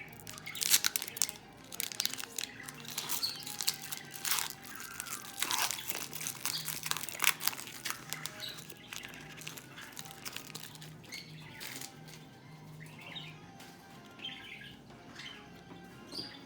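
A trading-card pack's wrapper is crinkled and torn open, with irregular sharp crackles that are loudest in the first half, followed by quieter handling of the cards.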